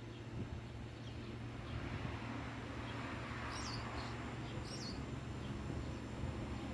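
Faint ambience of a steady low hum and hiss, with a small bird chirping twice near the middle.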